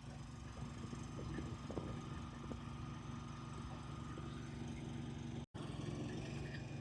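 Delivery truck engine running steadily with a low hum, a few faint knocks over it. The audio cuts out for an instant about five and a half seconds in.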